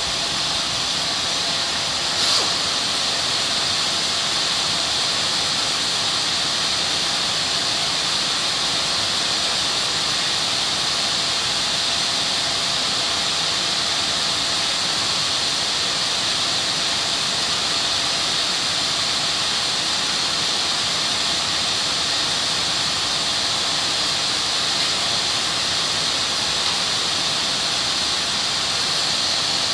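Power sander running steadily while dry sanding body filler, a constant high hiss with one brief click about two seconds in.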